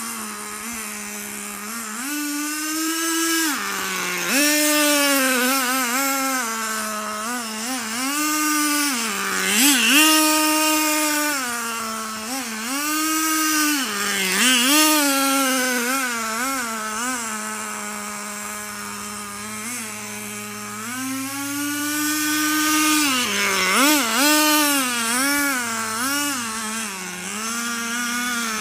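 Small two-stroke nitro glow engine (Thunder Tiger Pro 15) of a 1/10-scale RC monster truck, a high buzz that idles and repeatedly revs up and drops back as the throttle is worked. It sounds in need of a tune: the owner richens the mixture afterwards, taking it to be running a little lean.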